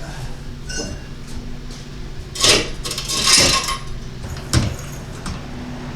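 Metal clanks and a scraping rattle from a jack stand being pulled out from under the car, four separate hits with the loudest scrapes in the middle.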